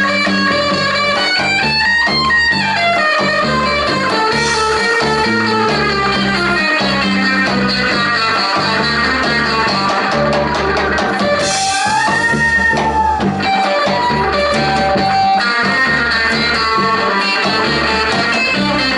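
Live band music with an electric guitar lead over bass and drums, the guitar bending notes that glide up and down twice.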